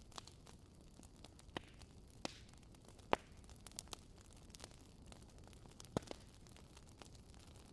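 Wood campfire crackling: sharp pops and snaps, loudest about three and six seconds in, over a low steady hiss of burning.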